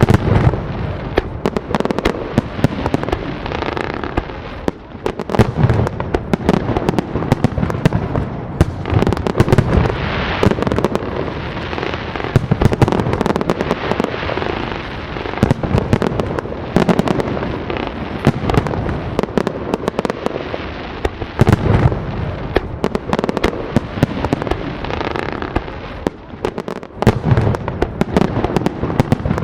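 Fireworks display going off continuously: dense crackling and popping shells with deep booms every few seconds.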